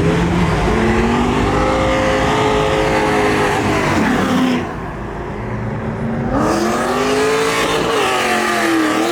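Car engine revved up hard and held at high revs, dropping off about four and a half seconds in, then revved up and held again before easing off near the end.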